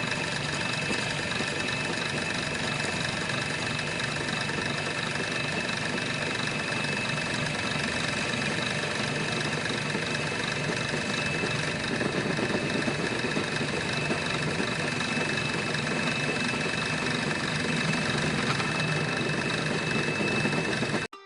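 Small motor-driven model machinery running steadily, with a constant high-pitched whine over a mechanical rattle; it gets a little louder about halfway through and cuts off suddenly at the end.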